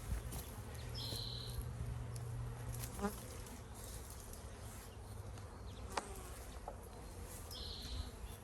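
Honeybees buzzing around an open backyard hive in a steady low hum, strongest in the first few seconds, with a few light knocks from the hive work.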